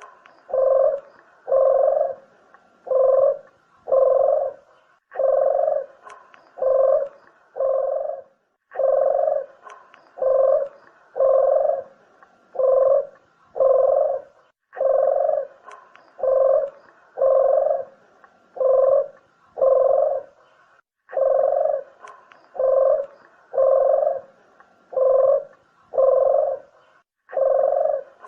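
Puter (Barbary dove) cooing: a low coo repeated about once a second in runs of four to six, each run followed by a short break.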